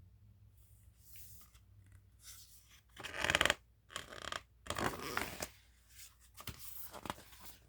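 Pages of a paper picture book being turned and handled: several short rustling swishes, the loudest about three seconds in.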